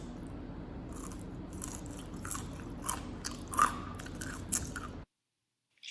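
Crispy homemade shoestring French fries being bitten and chewed: a run of sharp, irregular crunches over a steady low background hum, stopping suddenly about five seconds in.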